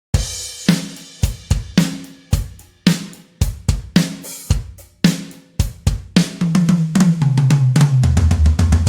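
Sampled acoustic drum kit from the Toontrack EZdrummer 3 plugin starting a groove on a crash and kick, with snare and hi-hat, then about six seconds in a fast fill rolling down the toms, each hit lower in pitch, ending on the floor tom.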